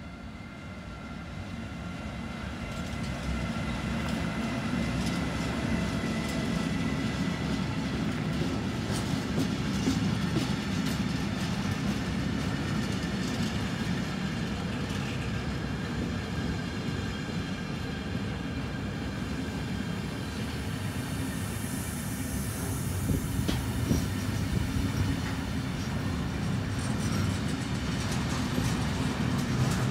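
Freight train passing: a Siemens Vectron electric locomotive followed by container flat wagons loaded with tank and box containers, a steady rolling rumble with sharp wheel clicks over the rail joints. It grows louder over the first few seconds as the locomotive comes up, then holds steady while the wagons roll by.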